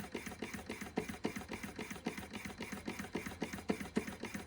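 Vintage Carette 687/1 hot-air (Stirling) engine running steadily, its moving parts clicking at an even rate of about four or five a second; it runs now that its air leak is fixed.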